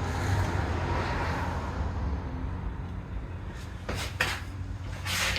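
Metal tools clinking during cam bearing installation in a 6.0 LQ4 engine block: some handling noise, then a few sharp metallic knocks in the second half, over a steady low hum.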